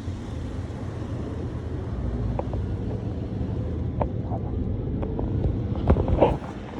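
Automatic car wash machinery working over the car, heard from inside the cabin: a steady low rumble that comes on suddenly at the start, with a few light knocks.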